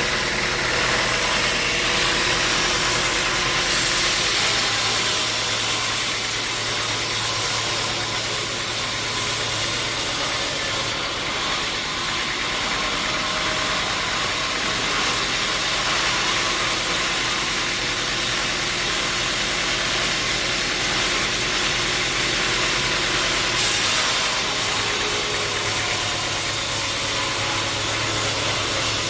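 Sawmill machinery running steadily, a motor hum under a continuous hiss. The hiss shifts in tone a few times.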